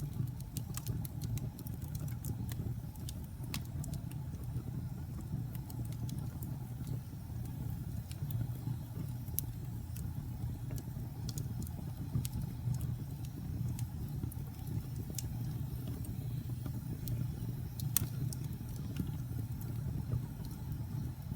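Wood fire crackling in a fireplace: a steady low rumble of burning with scattered sharp pops and snaps, one louder pop near the end.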